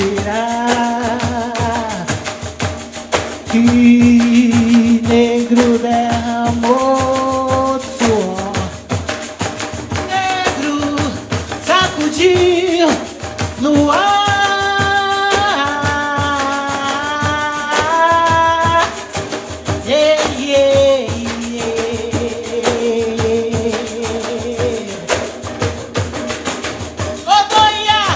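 Live Brazilian music: pandeiros (frame drums with jingles) play a dense, steady rhythm under a sung melody of long held notes that slide between pitches, at times in harmony.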